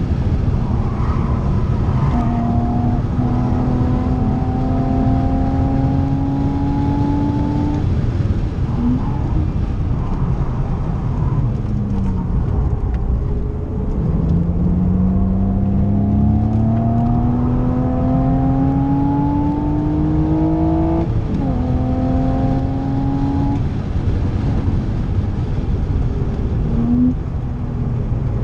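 A BMW Z4 3.0i's M54 straight-six heard from inside the cabin under hard acceleration on track. Its pitch climbs in each gear and drops at upshifts about two seconds in and again about three-quarters through. Near the middle the note falls as it slows, then a long climb follows, with short throttle blips near a third of the way in and near the end, over steady tyre and road noise.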